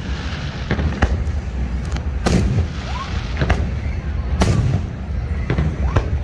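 Fireworks going off: a string of sharp booms about once a second, with a couple of short rising whistles from rockets going up, over a continuous low rumble.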